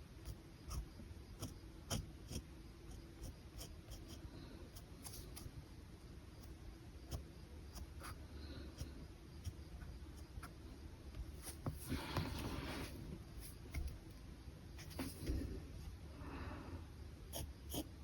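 Pen scratching on paper: many short, light strokes and ticks, with two longer scratchy strokes, one about two-thirds of the way through and one near the end.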